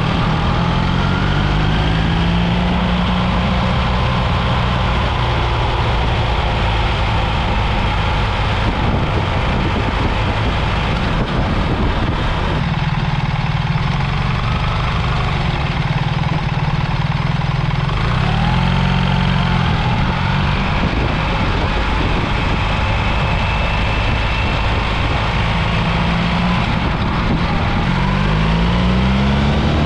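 BMW R 1300 GS boxer-twin engine under way at road speed. Its pitch rises and drops back several times as the bike accelerates through the gears, with steady wind rush over the microphone.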